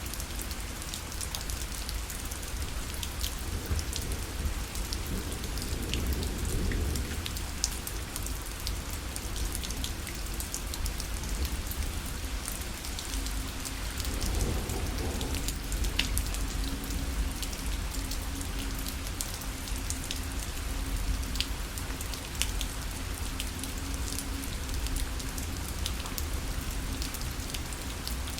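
Rain falling against a parasol: a steady patter of drops hitting the fabric, with many sharp individual drop hits over a low rumble.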